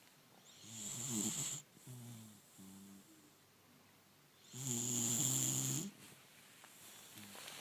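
Sleeping dog snoring, one rough snoring breath at a time: a snore about a second in, a fainter breath after it, and a longer, louder snore about five seconds in.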